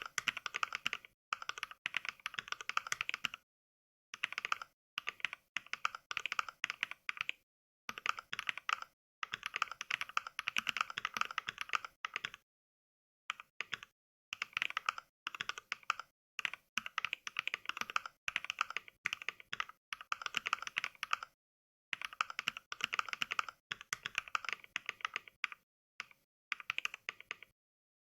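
Mechvibes 'NK Cream' sound pack: recorded clacks of NovelKeys Cream mechanical-keyboard switches, played back by software with each keystroke during fast touch-typing. The clacks come in quick runs of a second or a few seconds, broken by short gaps of dead silence.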